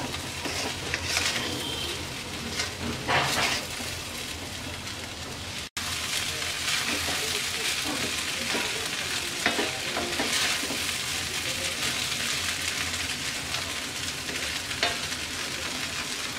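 Flattened-rice and vegetable pulao sizzling in oil in a steel karai, stirred and scraped around the pan with a wooden spatula. The sound cuts out for a moment about six seconds in.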